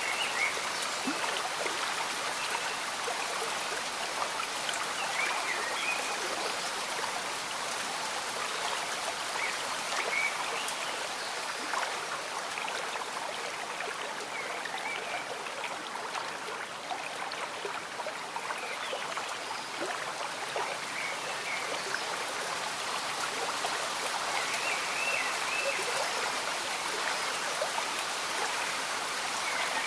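A small stream bubbling and trickling steadily, with gentle rain falling, and short bubbling notes popping up every few seconds.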